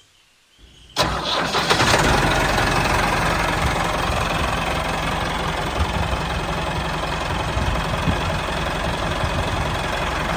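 Small motor of a miniature model tractor starting suddenly about a second in, then running steadily with a fast, fine rattle.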